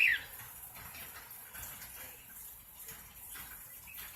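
Pet cockatiel giving a short, sharp chirp that falls in pitch, right at the start, over a quiet hissy background.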